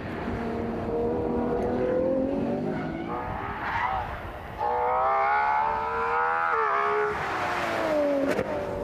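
Ferrari 812 Competizione's V12 engine revving under acceleration. Its pitch rises, dips, then jumps louder and higher about four and a half seconds in, and falls away near the end.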